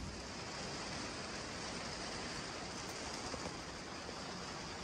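Steady monsoon rain pouring down, an even hiss with no distinct drops or thunder.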